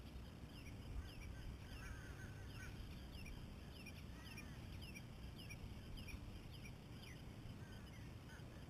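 A bird calling over and over: a short, high note sliding downward, repeated about twice a second, with a brief chatter about two seconds in.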